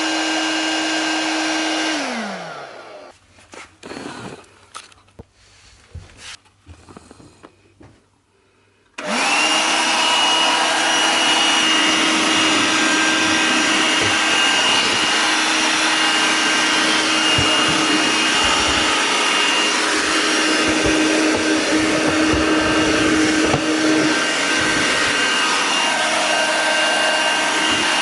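VAX Gator 10.8 V cordless handheld vacuum cleaner running, switched off about two seconds in with its motor winding down, then a few seconds of clicks and handling. It is switched back on about nine seconds in and runs steadily from then on, with a few low knocks along the way.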